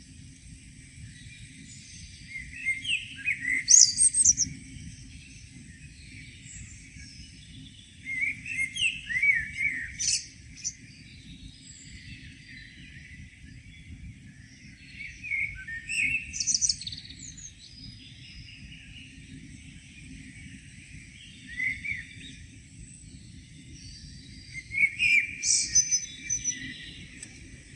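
Songbird singing short phrases about every six seconds, each starting lower and ending in a few high notes, with a faint steady low rumble underneath.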